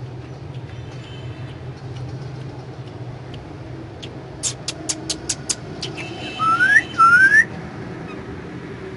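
Indian ringneck parrot calling: a quick run of six sharp chirps, then two loud rising whistles. A steady low hum runs underneath.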